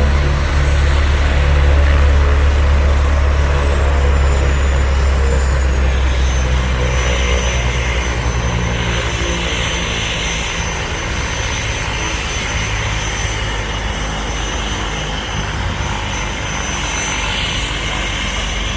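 Helicopter running close by: a steady low rotor hum with a high turbine whine above it. The whine drops in pitch about four to six seconds in, and the low hum eases after about ten seconds, as the engine winds back.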